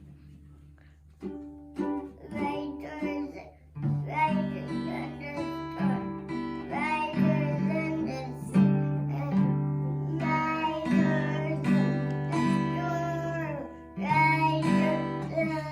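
Acoustic guitar strummed and played over sustained low notes, starting about a second in. A child's voice sings along without clear words from about four seconds in.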